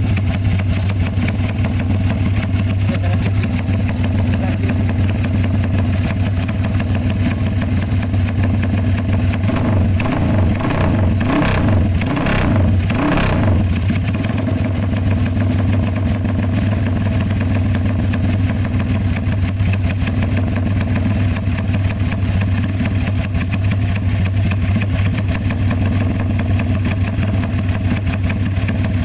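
Engine running at idle through a BMS X-One aftermarket exhaust with quarter baffling, a steady low drone; about ten seconds in the engine speed rises briefly for a few seconds and then settles back to idle.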